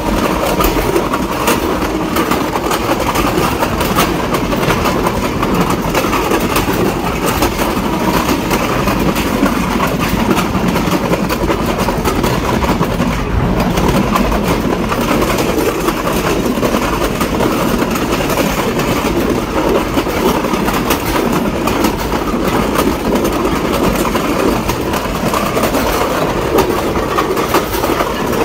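Train running along the track: a steady rolling rumble with frequent clicks of the wheels over the rails.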